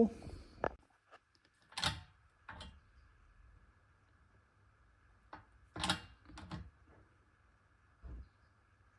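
Light clicks and knocks of small metal parts and hand tools being handled on a workbench, about half a dozen scattered taps over a faint steady hiss.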